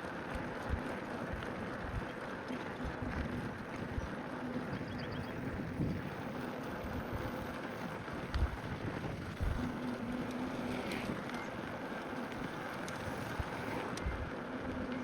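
Wind buffeting the microphone during a bicycle ride over a steady rushing noise, with irregular low thumps and a faint low hum that comes and goes.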